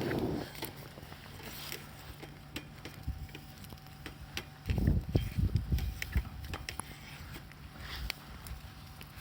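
Campfire crackling with scattered sharp pops, and a cluster of dull low thumps about five seconds in.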